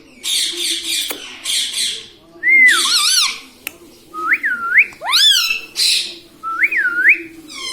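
Ring-necked parrot calling: two harsh, noisy squawks in the first two seconds, then a run of short whistles that swoop up and down, with another brief squawk in between.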